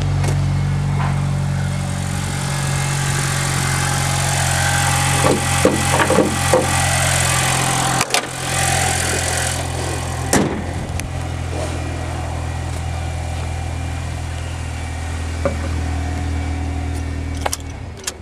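2010 Honda CR-Z's 1.5-litre four-cylinder hybrid engine idling steadily, with a brief dip about eight seconds in and a few clicks and knocks around the middle.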